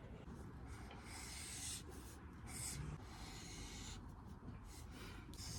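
Faint writing on paper: a handful of scratchy strokes, some lasting about a second, with short pauses between.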